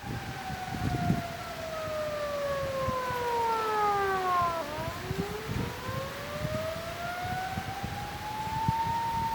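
A siren wailing, its pitch sliding slowly down for about four and a half seconds and then climbing back up, over a low gusty rumble of wind.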